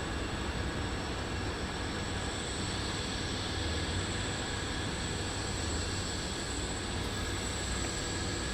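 Steady jet aircraft engine noise with a constant high-pitched turbine whine over it.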